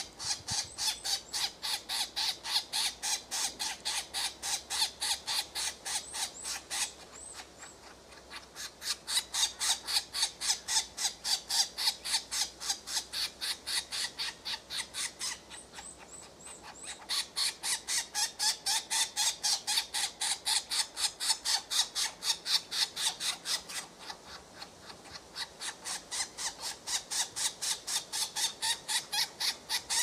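A bird calling over and over in quick, evenly spaced sharp chirps, about three or four a second, in long runs broken by short pauses.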